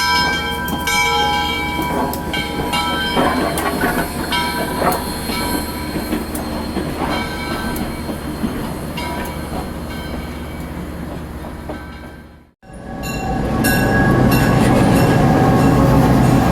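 Passenger train running on the rails: wheels clattering over the track with high-pitched squealing at times. About two-thirds through the sound breaks off abruptly and resumes as a louder, steadier rumble.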